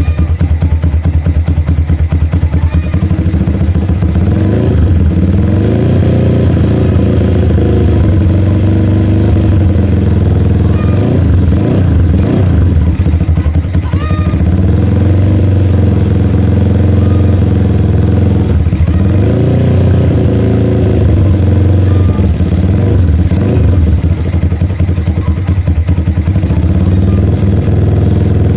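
Honda Megapro's single-cylinder four-stroke engine running loud through an RMS competition exhaust, idling with a deep steady note and revved briefly a few times.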